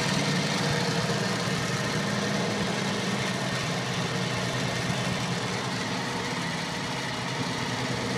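Logan 11-inch metal lathe running steadily at medium speed with the power feed engaged: a quiet, even mechanical hum from the spindle, gearbox and rotary phase converter, with the light ticking of its flat drive belt.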